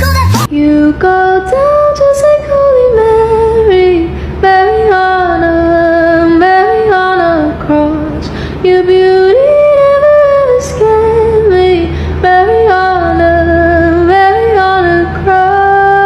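Music: a woman singing a slow melody with long held notes that slide from one pitch to the next, over a steady low backing.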